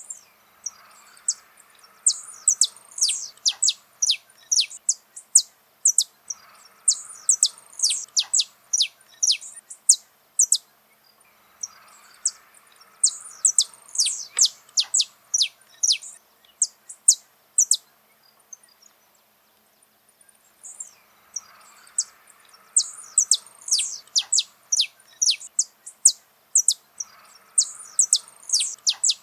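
Saffron finch singing: phrases of rapid, high, downward-sweeping notes lasting several seconds each, with short pauses between them.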